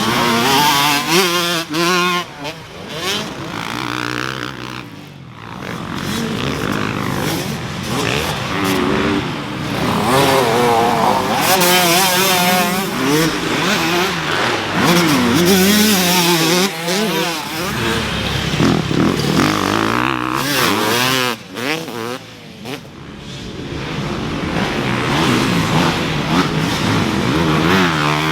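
Motocross dirt bike engines revving up and down through the gears as the bikes ride the track, the pitch climbing and dropping again and again. The sound swells and fades as bikes come near and move off, dipping about five seconds in and again twice in the second half.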